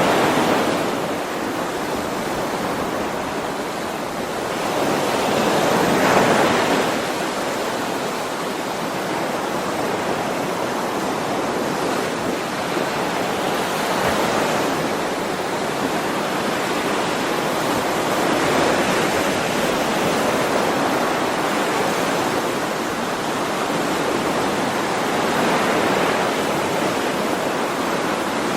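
Ocean waves washing onto the shore: a continuous rush of surf that swells at the start and most strongly about six seconds in, then settles into a steadier wash with gentler rises.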